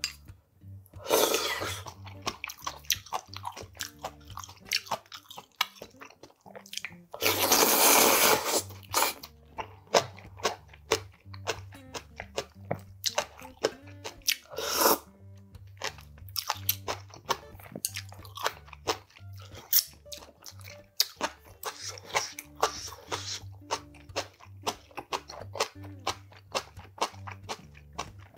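Close-miked chewing and crunching of spicy steamed monkfish and bean sprouts, with many sharp crunches and two longer, louder rushes of noise about a second in and around eight seconds. Soft background music with a low steady beat runs underneath.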